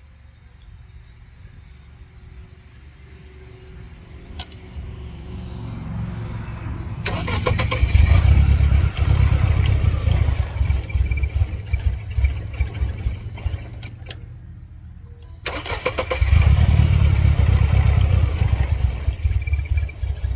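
Two start attempts on a 1999 Mercedes-Benz C230 Kompressor's supercharged four-cylinder engine, run with the throttle body unplugged. It catches suddenly about seven seconds in and runs, dies away around fourteen seconds, then catches again a second or so later and keeps running. The engine is faulty, with a flashing check engine light.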